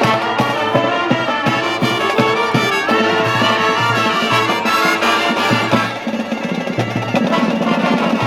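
High school marching band playing: brass section (trumpets, trombones) with marching drums keeping a steady beat, a little softer for the last couple of seconds.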